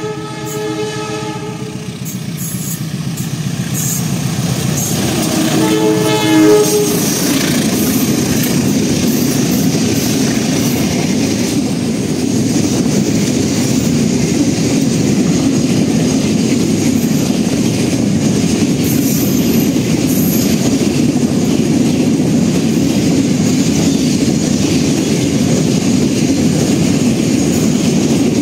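Diesel train sounding its air horn, with a second horn blast about six seconds in that drops in pitch as the locomotive passes close by. The steady rumble and clickety-clack of the train rolling past then fills the rest.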